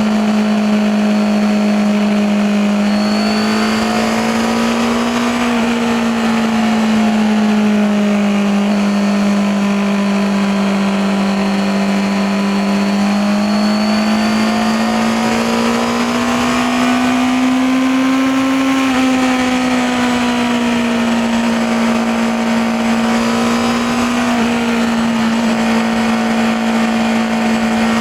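Honda CBR650R's inline-four engine and exhaust running steadily under way, the pitch rising and falling gently a few times as the revs change.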